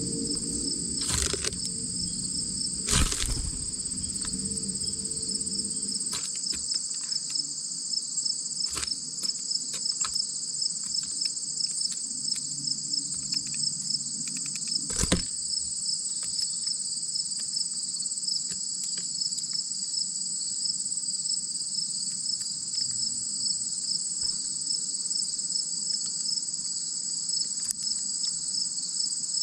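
Steady outdoor insect chorus: a continuous high, finely pulsing trill in two pitches. A few sharp taps or knocks break through, the loudest about three seconds in and about halfway.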